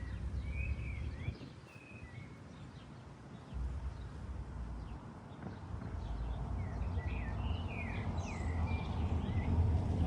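Birds chirping in two short bursts of quick, repeated notes, one at the start and one in the second half, over a low rumble that grows louder toward the end.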